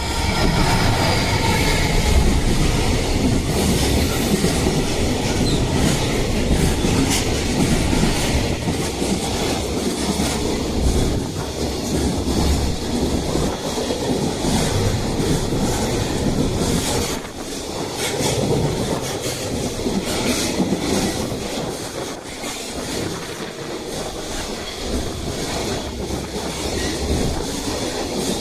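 A long freight train rolling past, its wagon wheels clacking over the rail joints with some wheel squeal, the steady rumble lasting the whole time.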